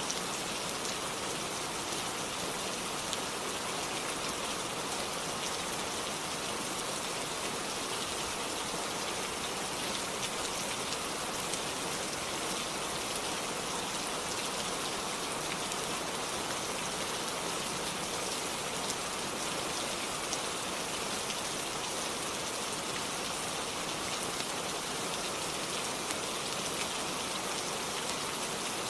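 Steady rainfall: an even hiss of many small drops pattering on a surface.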